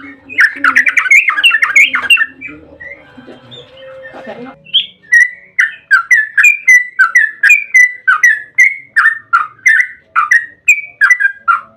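Yellow-vented bulbul (trucukan) calling: a loud burst of chattering, then after a short lull a long rapid series of liquid slurred notes, about three a second.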